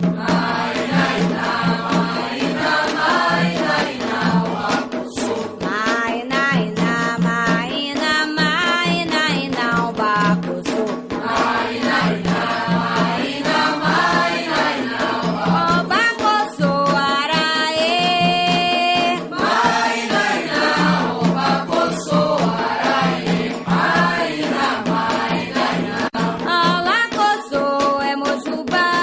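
Devotional Candomblé chant for Xangô, sung by a group of voices over a steady, regular drum beat.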